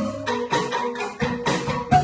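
Bamboo ensemble playing an upbeat pop arrangement: struck bamboo instruments carry the melody over a bouncing bass line, with shaken and tapped percussion keeping the beat.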